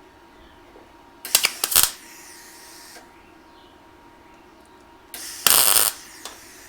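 A quick run of sharp clicks and clanks, then about four seconds later a short rush of hissing noise lasting under a second, against quiet shop room tone.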